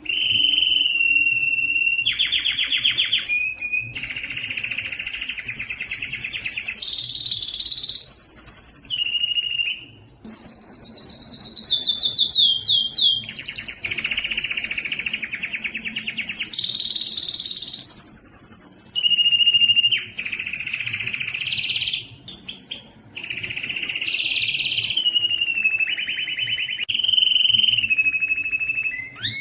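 Domestic canary singing a long, nearly continuous song of rapid rolling trills and clear whistled notes, switching to a new phrase every second or two, with brief pauses about a third and three-quarters of the way through.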